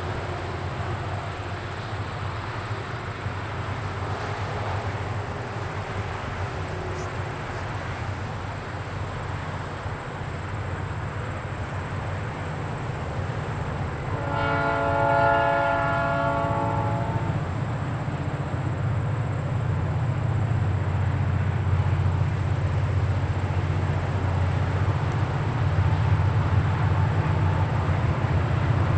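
Diesel freight locomotives approaching, out of sight: a steady low rumble that grows louder. A multi-chime locomotive air horn sounds for about three seconds about halfway through.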